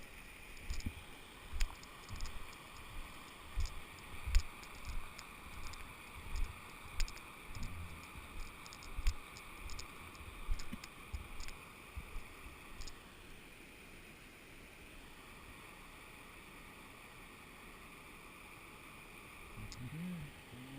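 Footsteps crunching and rustling through flattened dry grass on a riverbank, at a walking pace, stopping about two-thirds of the way through. A steady rush of river water over rock structures runs beneath.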